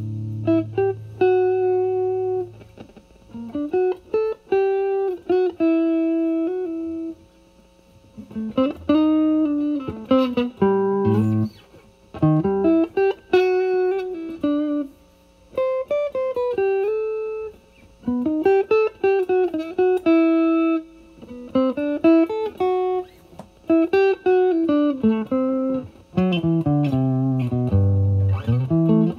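Electric guitar, a Fender Stratocaster, played through a Vertex Steel String Clean Drive overdrive pedal set at gain 9 into a Marshall Valvestate amp's clean channel, giving a light, Dumble-style drive. A held low note fades over the first couple of seconds, then blues lead phrases of single notes with string bends follow, separated by short pauses.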